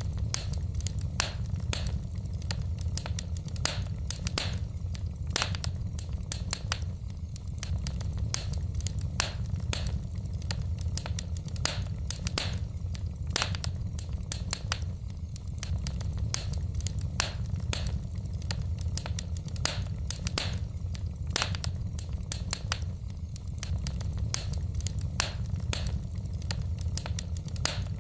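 Wood fire in a fireplace crackling: irregular sharp pops and snaps of burning logs, several a second, over a steady low rumble.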